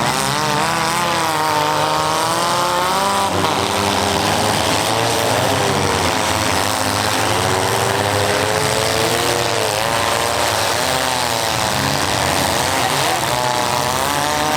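Several small-car engines revving and running at once, their pitches rising and falling over one another, as demolition derby cars drive and hit in a heat.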